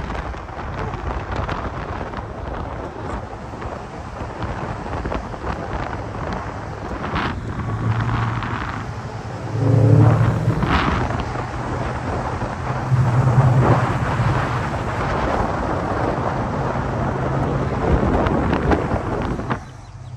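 Low car engine rumble while driving, with wind buffeting the microphone. The engine swells louder about halfway through and again a few seconds later.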